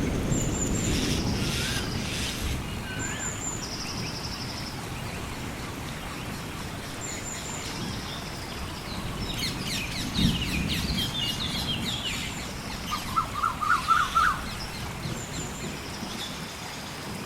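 Tropical rainforest ambience: several birds calling, with repeated short high chirps, a few rising whistles and a quick trill about thirteen seconds in, over a steady hiss of rain. A low rumble of thunder dies away over the first few seconds and rolls again about ten seconds in.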